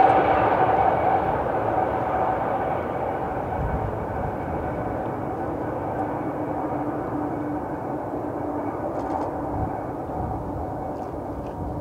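BNSF ES44C4 GE diesel locomotive and its passenger cars running on the rails, fading steadily as the train moves away. A steady whine sits over the rumble and drops lower part way through.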